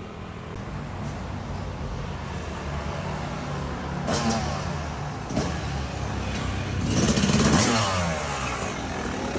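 Two-stroke dirt bike engine of a Yamaha YZ250X running, with a couple of sharp knocks in the middle and a louder rev about seven seconds in.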